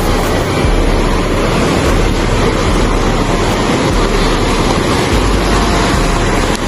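Wind buffeting a phone microphone over a steady rush of water, likely surf, with a heavy low rumble and no clear pitch.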